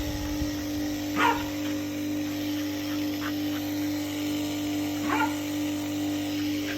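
Electric motor of a Nilfisk pressure washer running with a steady hum, while a dog gives short barks, loudest about a second in and about five seconds in.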